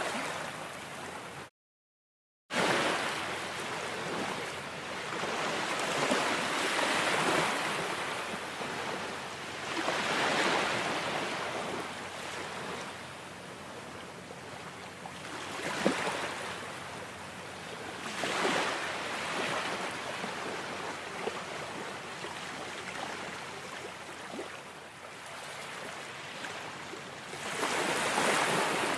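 Ocean surf: waves washing in and drawing back, the rush swelling and fading every few seconds. The sound cuts out completely for about a second near the start, then resumes.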